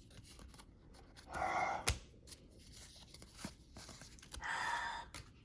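Trading cards being handled and sorted by hand: two brief sliding rustles of card against card, with a sharp click between them.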